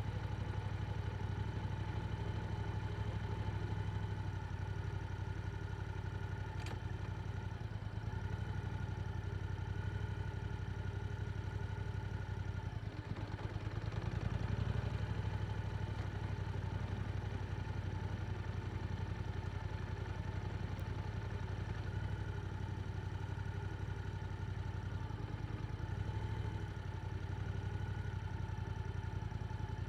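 Yamaha R7's parallel-twin engine running through an aftermarket Akrapovic exhaust, idling steadily, with a small swell about halfway through.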